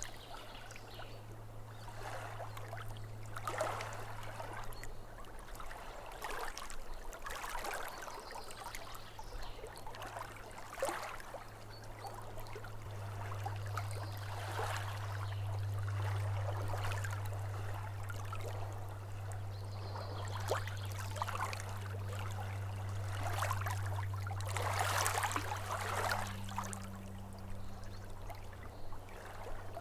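Small lake waves lapping against the shore, a soft wash swelling and fading every couple of seconds, over a steady low hum that grows louder about halfway through.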